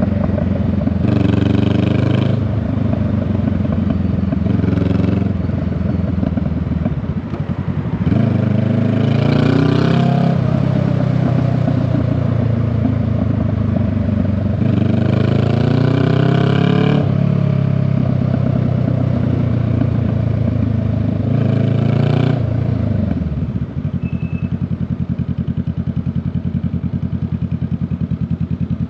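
Honda Rebel 500 motorcycle engine and exhaust under way, revving up with rising pitch and easing off several times as it rides. About 24 seconds in it settles to a steady, evenly pulsing idle.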